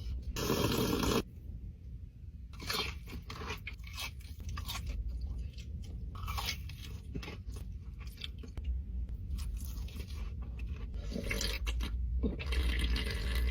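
Close-miked eating of crisp food: repeated crunching and chewing, made up of many short sharp crackles, with a louder burst of crunching about half a second in.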